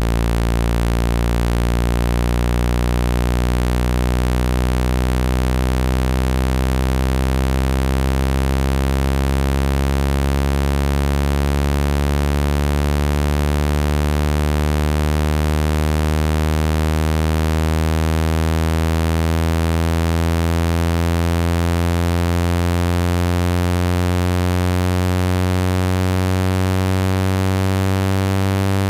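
Speaker-cleaning tone, a low buzzing tone with many overtones that rises slowly in pitch. It is meant to shake water droplets and dust out of a phone's speaker and earpiece.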